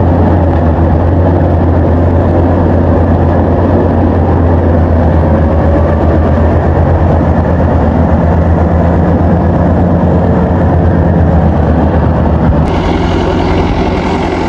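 Combine harvester engine running steadily under load with a strong low hum. The sound changes abruptly near the end, the hum lightening and a brighter noise coming in.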